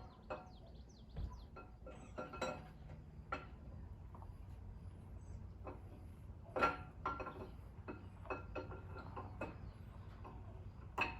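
Camshaft being worked by hand into a 4.8 V8 engine block, its lobes and journals clinking lightly against the cam bearings in scattered metal clinks, the loudest about six and a half seconds in.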